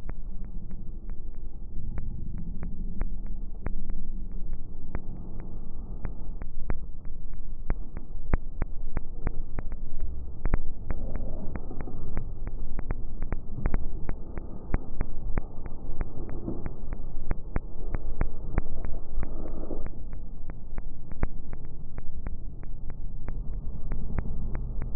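Campfire crackling: sharp pops several times a second over a steady low rumble.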